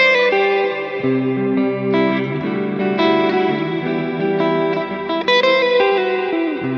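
Telecaster electric guitar played clean through a Line 6 Helix LT ambient preset. Chords and single notes ring long and overlap, with a new chord struck roughly once a second and a note bending down near the end.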